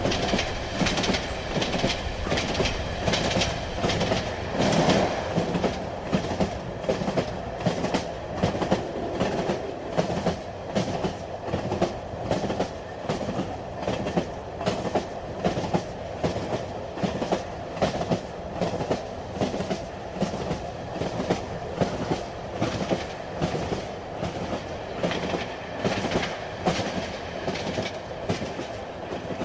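Moving train: a steady rumble with regular clickety-clack of the wheels over rail joints, a little more than once a second.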